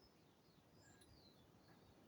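Near silence: faint background hiss with a few brief, faint high bird chirps.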